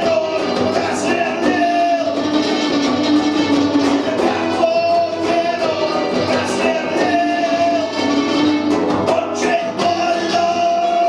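Punk rock band playing live: guitar and drums, with held melodic notes carried over them.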